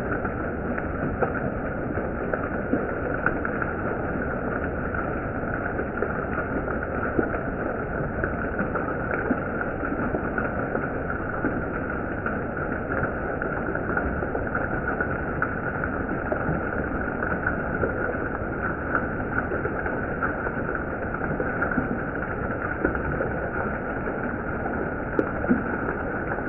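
Steady rushing noise of heavy monsoon rain, even and unbroken.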